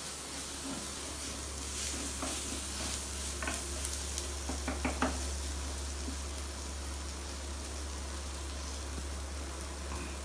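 Onion-tomato masala with ginger-garlic paste sizzling in hot oil while it is stirred, a steady frying hiss. A few quick clicks of the spoon against the pot come about four to five seconds in.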